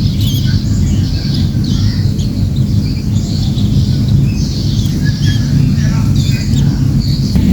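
Cembelek birds calling in many short, high chirps and squawks, over a loud, steady low rumble.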